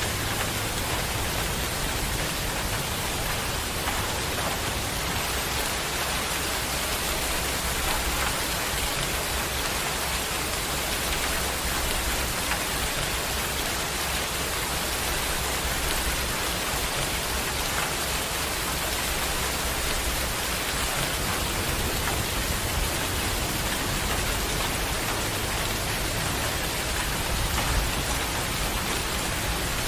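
Heavy rain falling steadily, a dense even hiss of drops striking surfaces, with a few louder single drops or splashes.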